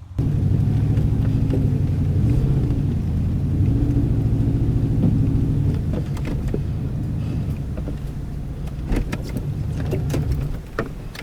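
Truck engine running with its revs rising and falling, then cutting off shortly before the end; a few sharp knocks near the end.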